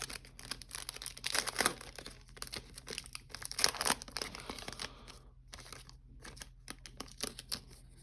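Trading card pack wrapper crinkling and tearing, with cards rustling as they are handled; irregular crackles, loudest a little over a second in and again around three and a half seconds in.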